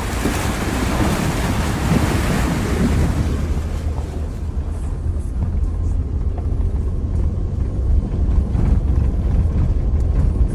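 Wind noise on the microphone over a steady low rumble; the hiss is strongest at first and dies down about four seconds in.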